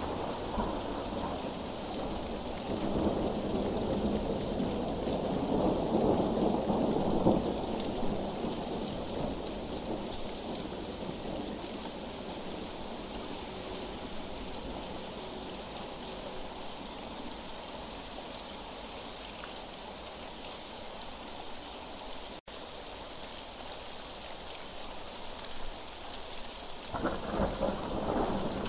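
Steady rain with rolling thunder: a long rumble swells in the first several seconds and slowly fades, and another begins near the end. The sound cuts out for an instant about two-thirds of the way through.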